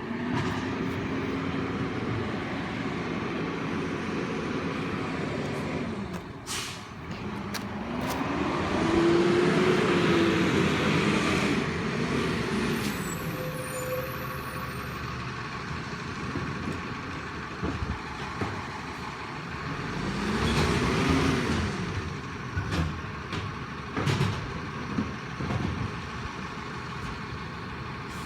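Garbage truck's diesel engine revving up and back down three times as it works its lift and packer, with a few sharp metallic knocks and a short air-brake hiss.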